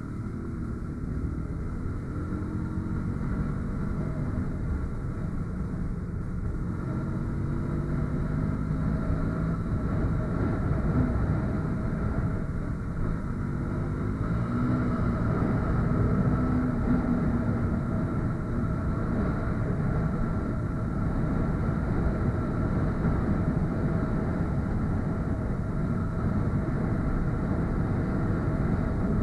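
Motorcycle engine running under way, with a heavy rush of wind and road noise. The engine note rises and falls a few times as the bike speeds up and shifts, and the sound grows louder through the first half.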